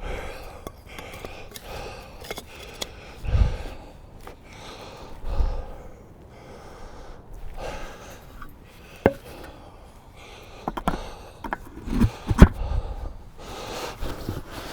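Scattered, irregular knocks and thumps of work being handled, with a sharp click about nine seconds in and the loudest knocks near twelve seconds in.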